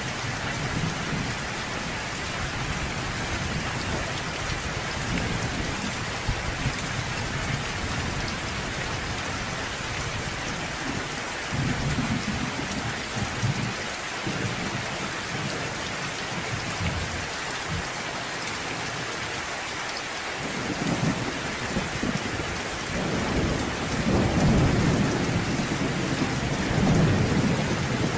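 Steady rain falling, with deep rolls of thunder rumbling several times over it; the longest and loudest roll builds near the end.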